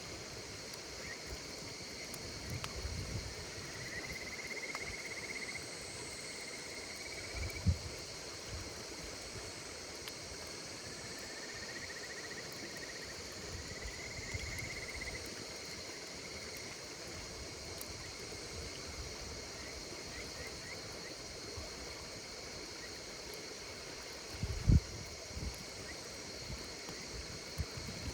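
Night insects chirring steadily, with crickets giving short pulsed trills now and then. A campfire beside them makes a few faint ticks and low thumps, the loudest near the end.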